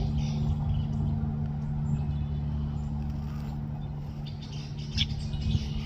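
A steady low mechanical hum, under faint chirps of red-winged blackbirds, with one short, sharper bird call about five seconds in.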